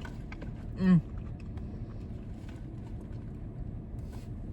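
Steady low rumble of a parked truck idling, heard from inside the cab, with scattered small clicks. A short hummed 'mm' with falling pitch comes about a second in.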